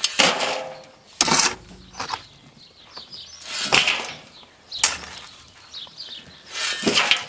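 Shovel scraping and scooping loose fill, in short irregular strokes a second or two apart.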